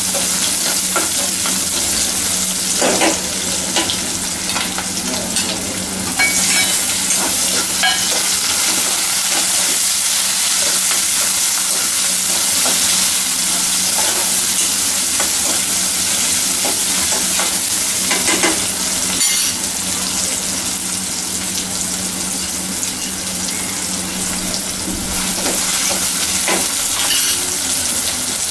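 Chopped onions, green chillies and tomatoes sizzling steadily in hot oil in a kadai, stirred with a steel spoon that scrapes and clicks against the pan now and then.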